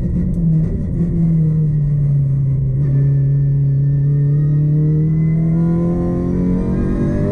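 Racing car engine heard from inside the cockpit, its pitch sagging a little and holding through a corner, then climbing steadily over the last couple of seconds as the car accelerates out.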